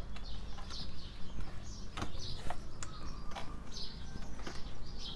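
Small birds chirping repeatedly, with a couple of light knocks about two seconds in.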